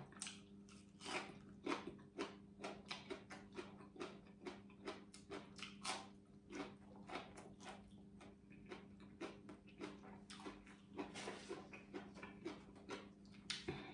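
Close-up crunchy chewing of crisp raw vegetables: many short, crisp crunches in an uneven rhythm. A faint steady hum sits underneath.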